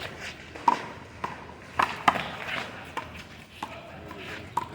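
Rubber handball rally: a series of sharp, irregular slaps as the ball is struck by hand and bounces off the wall and pavement.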